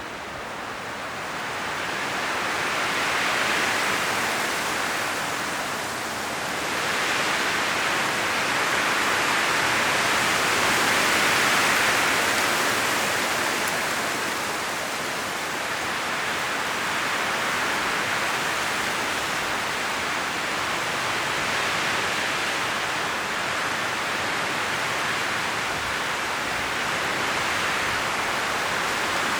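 Strong wind blowing through forest trees, the leaves rustling in a steady hiss that swells in gusts about 3 seconds and 11 seconds in, then settles.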